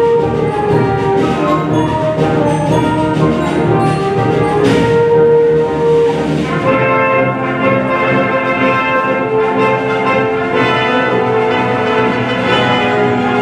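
Live symphony orchestra playing, with brass prominent in held chords and a cymbal-like swell around the middle.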